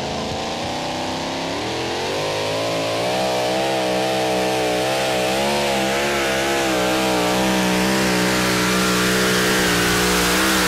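Two-wheel-drive pulling tractor's engine at full throttle during a pull, hauling the weight sledge. It rises in pitch about two seconds in, then holds high with the revs wavering up and down as the wheels fight for grip.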